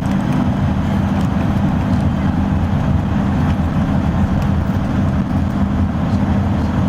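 A road vehicle driving at steady speed: a constant low engine drone over road noise.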